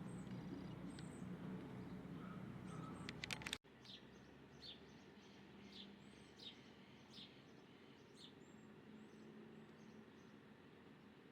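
Small birds chirping faintly: short, high, falling chirps repeated every half second to a second, with a few higher arcing notes, over a low background hum. A few sharp clicks, then an abrupt cut to a quieter background, about three and a half seconds in.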